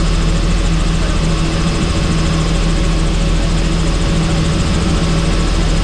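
Helicopter engine and rotor running at a steady, unchanging drone, with a constant low hum.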